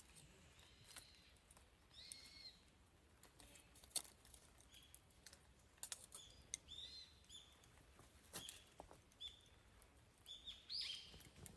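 Wood campfire crackling with scattered sharp pops, the loudest about four seconds in, while a bird chirps short calls several times.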